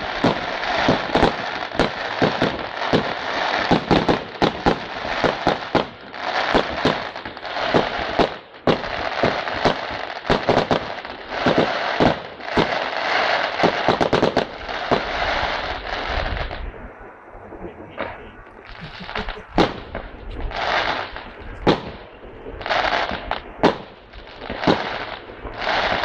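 Fireworks display: a dense barrage of bangs and crackling shell bursts for about the first sixteen seconds, then thinning to separate bangs with short bursts of crackle.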